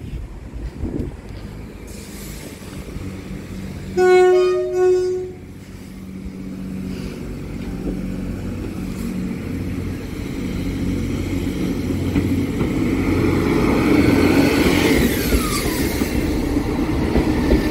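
A train horn sounds one short two-part blast about four seconds in. The train's rumble then grows steadily louder as it approaches.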